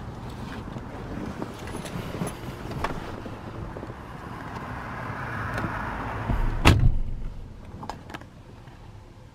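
A car door shutting with one heavy thump about two-thirds of the way in, followed by two light clicks. A rushing background noise swells just before the thump.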